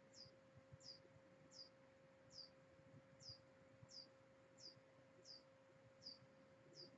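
Near silence, with a small bird's faint, high chirps repeating evenly about every three-quarters of a second, each one sliding down in pitch, over a faint steady hum.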